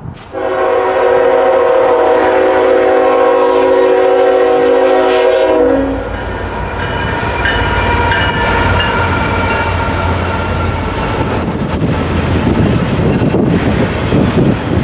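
Diesel locomotive horn sounding one long chord blast of about five and a half seconds from two GE ET44AC locomotives leading a freight train. After the horn stops, the locomotives pass with a low engine rumble, then double-stack container cars roll by with wheel clatter on the rails.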